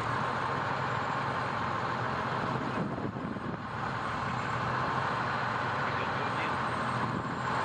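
Fire truck engine running steadily with a low hum under an even wash of vehicle noise, dipping briefly about three seconds in.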